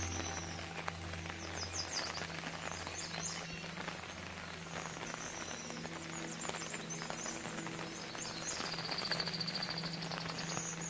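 Rain falling with birds chirping in short high calls, one longer curving call near the end, over a low steady drone.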